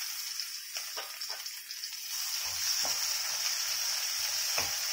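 Chopped tomato frying in hot sesame oil with garlic, shallots and dried red chillies in a stainless steel kadai: a steady sizzle that grows a little louder about two seconds in. A wooden spatula stirring gives a few light knocks against the pan.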